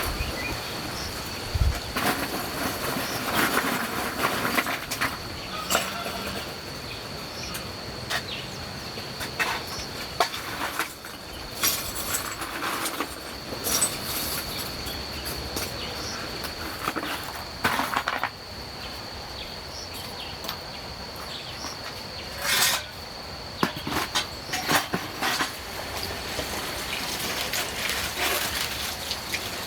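Insects trilling steadily at one high pitch, with scattered knocks, clicks and rustles of things being handled.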